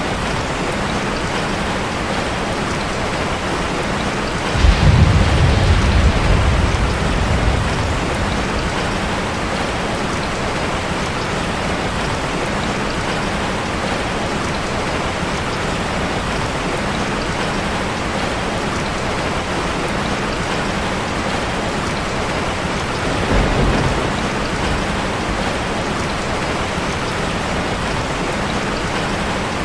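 Steady rain on a metal roof, with two low rumbles of thunder: a louder one lasting about three seconds, early in the sound, and a shorter, weaker one near the end.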